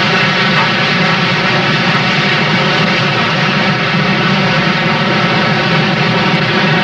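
Steady, unbroken running noise of a moving train.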